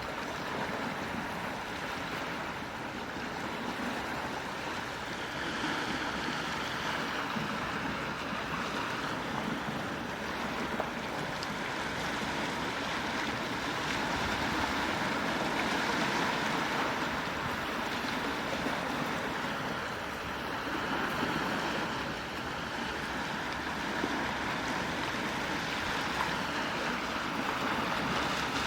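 Quiet sea waves washing onto the shore, a steady wash that swells and eases every several seconds.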